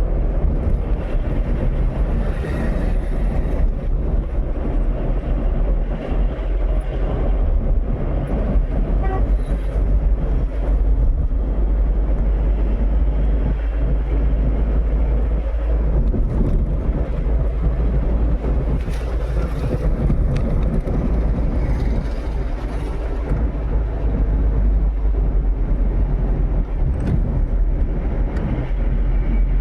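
Steady, loud low rumble of a moving vehicle, with traffic noise around it.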